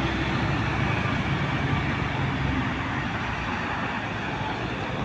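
Heavy truck engine running steadily as it goes by on the road, the sound slowly fading toward the end.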